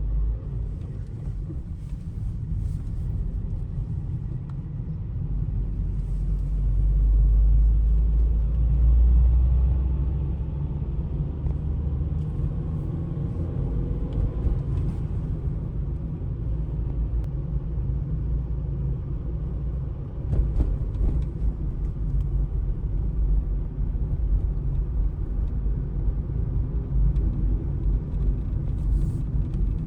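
Street ambience dominated by the low rumble of road traffic, swelling to its loudest a few seconds in as a vehicle passes.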